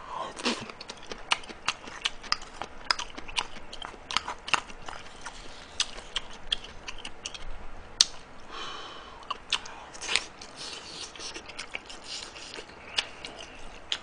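Close-up chewing and wet mouth clicks of a person eating stir-fried chicken bulgogi, in an irregular run of short smacks. A single sharp click comes about eight seconds in.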